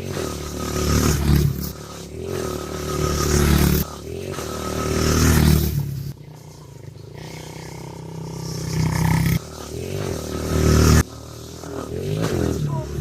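Dirt bike engine revving hard over and over, each run building up and then cutting off abruptly, about five times.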